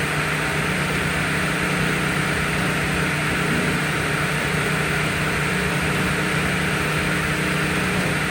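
An engine running steadily at a constant speed, with a steady hiss over it and no change in pitch.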